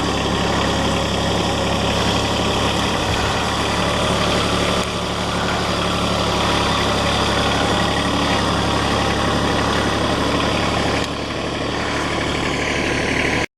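Kubota L3130 tractor's diesel engine running steadily at idle, dropping slightly in level about eleven seconds in.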